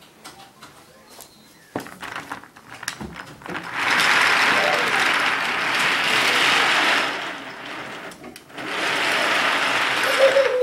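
Toy train running along its track with a mechanical whirr, in two stretches: one of about three seconds starting four seconds in, and another starting near the end, after a few light clicks of the toys being handled.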